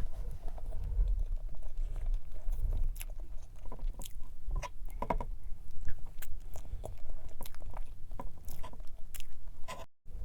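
Close-miked chewing and mouth sounds of someone eating strawberry cream cake: wet smacks and short clicks over a low rumble. The sound cuts out briefly near the end.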